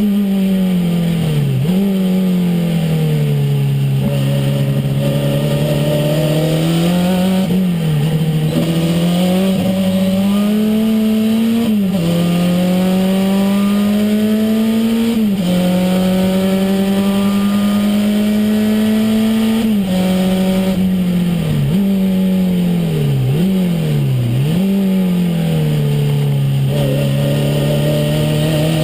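Renault 5 Turbo's turbocharged four-cylinder engine heard from inside the cabin, its note climbing steadily under acceleration and dropping sharply at each gear change or lift, about eight times, with quick double dips near the end.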